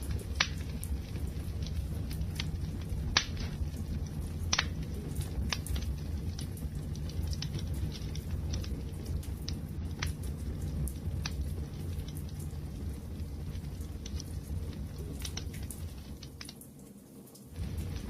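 Wood fire crackling, with a steady low rumble and scattered sharp pops and snaps, a few louder ones early. It briefly drops away near the end before picking back up.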